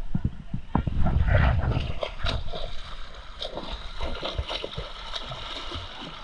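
Sea water splashing and gurgling as a snorkeller goes into the water, loudest about a second in and then dying down, with scattered small clicks.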